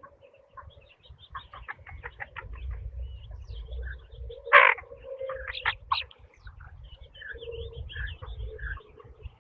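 Domestic chickens clucking in quick runs of calls, with one loud squawk about four and a half seconds in, while small birds chirp and a low rumble runs underneath.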